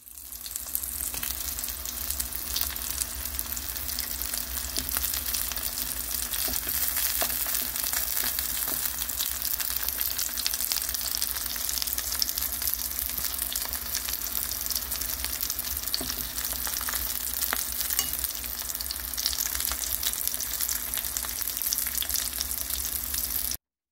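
Dongeurangttaeng (Korean meat-and-vegetable patties) frying in oil in a cast-iron skillet: a steady sizzle with frequent small crackles and pops over a low steady hum. It cuts off suddenly near the end.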